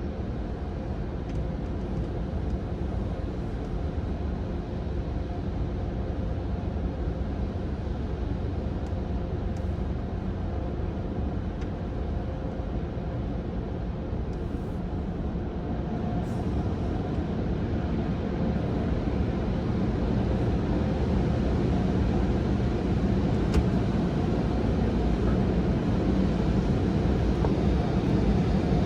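Steady low rumble of a car heard from inside the cabin, growing louder over the second half.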